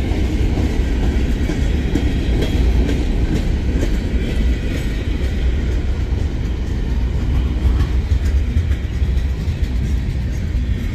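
Freight train rolling slowly past, a steady rumble of railcars and wheels on the track.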